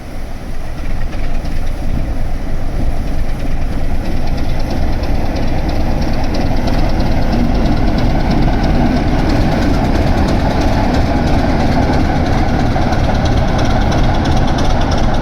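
A train running on the line, a steady rumbling noise that builds over the first few seconds and then holds.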